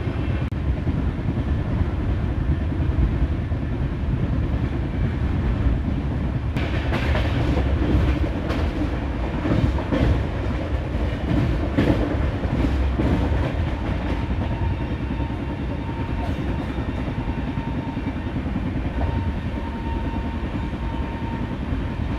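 Express train coach heard from on board while running: a steady low rumble of the wheels on the track. From about a third of the way in, for several seconds, the wheels click over rail joints.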